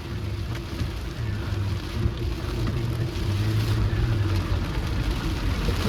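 A car driving in the rain: a steady low engine and road drone with a held hum, over an even hiss of rain and wet tyres.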